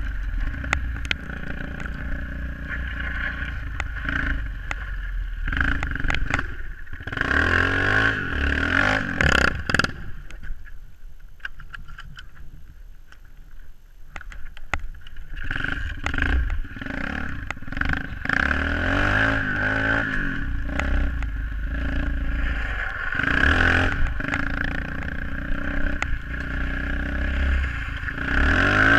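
SSR 125cc pit bike's single-cylinder four-stroke engine revving up and down as it is ridden, dropping to a lull about twelve seconds in before picking up again.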